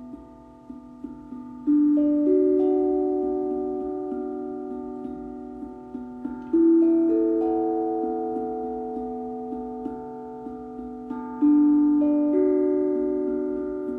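Steel tongue drum (glucophone) played slowly. Single notes are struck and left to ring out and overlap, with a strong low note about every five seconds followed by one or two higher notes.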